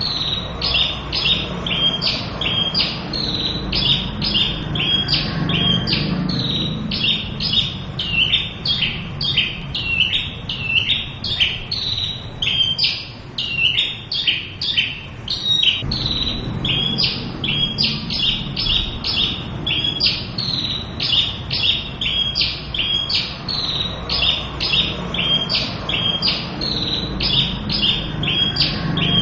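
Javan bush lark singing a long, unbroken song: a quick run of varied chirping notes, several a second.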